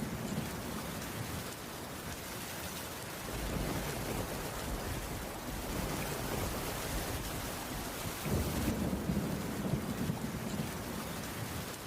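Heavy rain falling steadily on a roof, with low rolls of thunder swelling about three seconds in and again past the middle.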